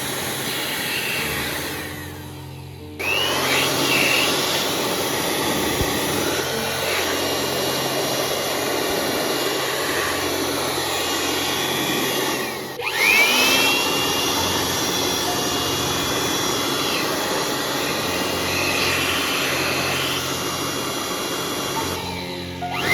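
Handheld electric air blower running at full speed with a steady rushing hiss. It cuts out about two seconds in and again briefly around the middle, and each time its motor whines back up to speed when switched on again. It is blowing water and dust off a freshly washed motorcycle.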